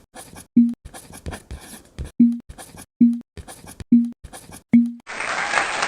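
Short, low pops repeat about once every second over light scratching. About five seconds in, a steady rushing noise starts.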